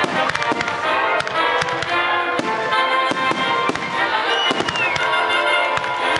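Fireworks shells bursting and crackling in quick succession over loud music.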